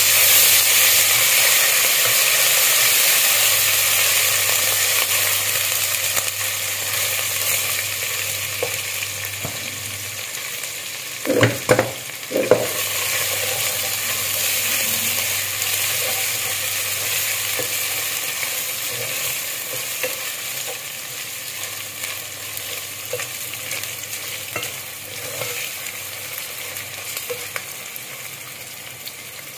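Sliced onions and ginger-garlic paste sizzling in hot ghee in a metal pot, stirred with a spatula. The sizzle slowly eases off, and a brief clatter of the spatula against the pot comes a little before halfway.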